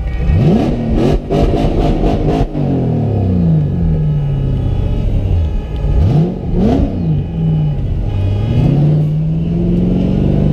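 Supercharged V8 engine of a BMW M3 drift car revving hard from inside the cabin, its pitch shooting up, sagging and climbing again several times as the throttle is worked through a drift, then holding steady near the end. A quick run of sharp cracks about a second in.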